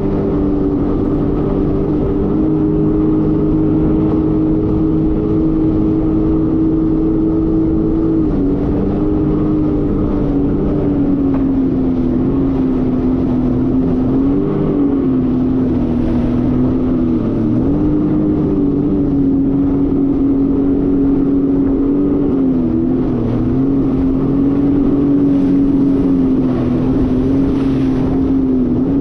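Jet ski engine running steadily at speed, its pitch dipping briefly and recovering a few times.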